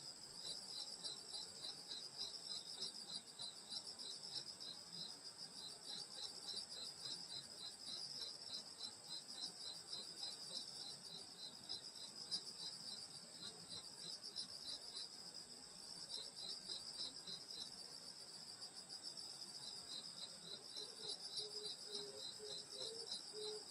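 Night chorus of grass insects such as crickets: a steady high-pitched trill, with one insect chirping in a fast, even rhythm that pauses briefly twice.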